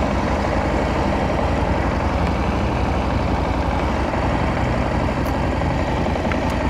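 KTM 890 SMT parallel-twin engine running steadily at low city speed, about 20 mph in second gear, with road and wind noise.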